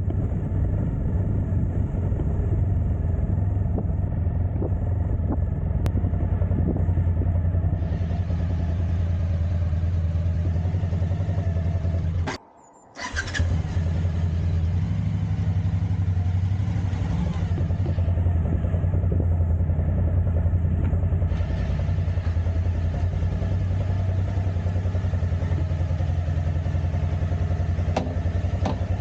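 Motorcycle engine running steadily as the bike is ridden, with a brief dropout in the sound about twelve seconds in.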